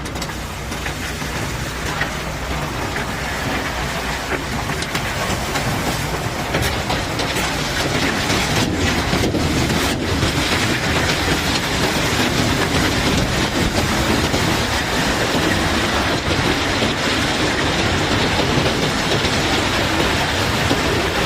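Cobblestones clattering and tumbling in a dense, continuous rattle as they pour off a barge during unloading, over a steady low machine hum. The clatter grows louder over the first half and then holds.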